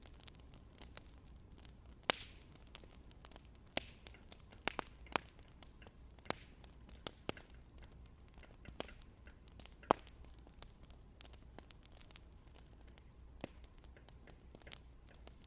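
Wood fire crackling: irregular sharp pops and snaps of burning logs over a faint steady hiss, the loudest pops about two seconds in and about ten seconds in.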